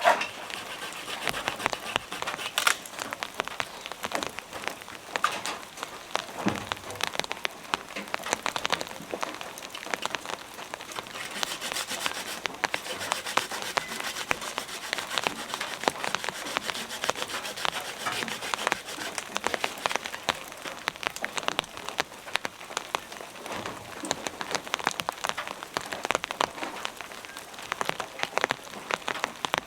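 Heavy rain falling, a dense patter of drops striking close by, with a few sharper taps standing out.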